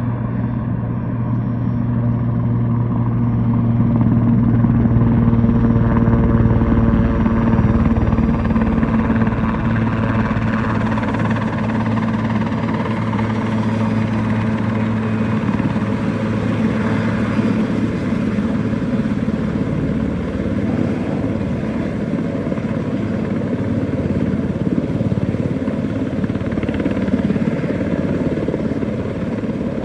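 Sikorsky S-61A twin-turbine helicopter flying overhead, a steady rotor and turbine drone that swells louder a few seconds in and then holds steady.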